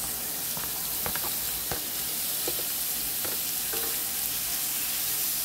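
Beef, onion and garlic sizzling in oil in a stainless steel frying pan as diced tomatoes are scraped in with a wooden spoon. A few short knocks come from the spoon against the pan and container.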